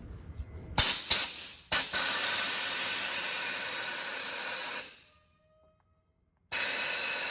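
Compressed air hissing out of a truck's air-ride suspension through the valve while its button is held down, draining the air tank because it has no drain cock. Three short blasts come first, then a long hiss of about three seconds that fades out, a pause, and another hiss near the end.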